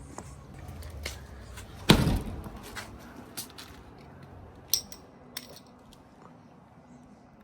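A single loud slam or thump about two seconds in that rings on briefly, followed by a few faint clicks.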